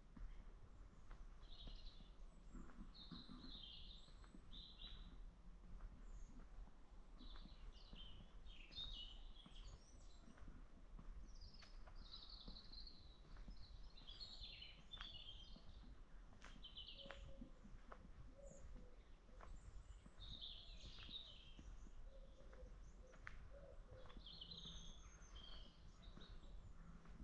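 Faint birdsong: small birds chirping in short repeated phrases every second or two, over a steady low background rumble.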